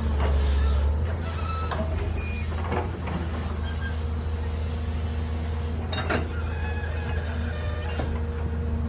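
Heavy diesel machine running steadily with a deep low hum, with a few sharp metallic knocks and brief squeaks.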